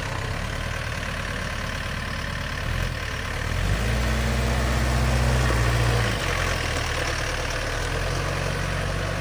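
Tractor engine idling steadily. About four seconds in it revs up, holds the higher speed for about two seconds, then drops back to idle.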